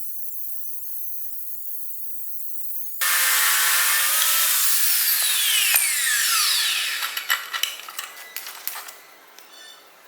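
A faint high hiss, then about three seconds in a power tool's motor starts and runs loudly for a second or two. It then winds down with a falling whine, followed by a few scattered clicks as it stops.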